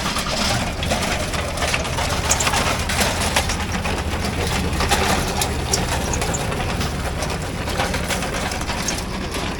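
Portable gasoline generator running steadily again after being refuelled, a low engine hum with a busy rattle over it.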